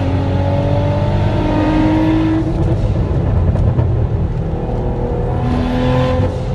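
Turbocharged car engine accelerating hard, its note rising for the first couple of seconds, then dropping about two and a half seconds in. It runs lower for a few seconds and rises again near the end.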